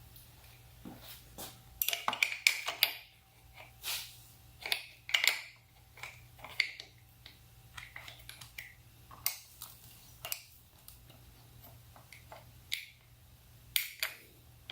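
Irregular clicks, taps and light clatter of small parts and hand tools as a DC power outlet and its mounting hardware are worked into place on a motorcycle, over a faint steady low hum.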